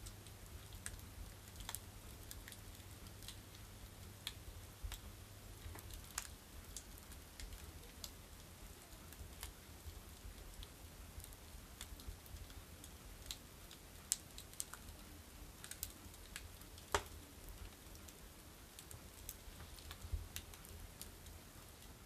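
Firewood burning in a brick village stove, crackling with irregular sharp pops over a faint hiss, and one louder pop about three quarters of the way through.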